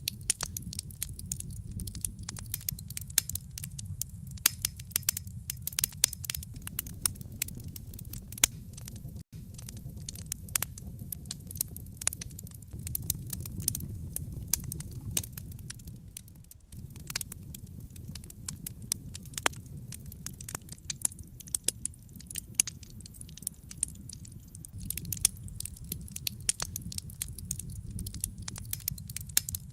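Wood fire crackling in a fireplace: frequent sharp snaps and pops of burning logs over a steady low rumble of the flames.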